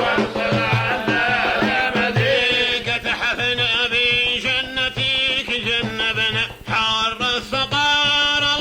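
A man's voice chanting an old sung poem (qasida) in a Middle Eastern folk style, with a repeating low beat underneath.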